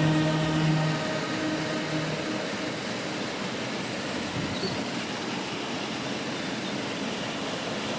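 Waterfall rushing with a steady, even roar. Sustained background music fades out in the first two seconds.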